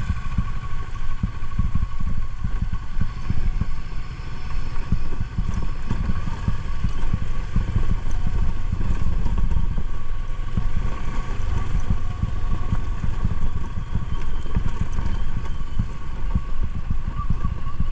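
Motorcycle running under way at a steady pace: a constant low rumble with a steady whine above it, with no breaks.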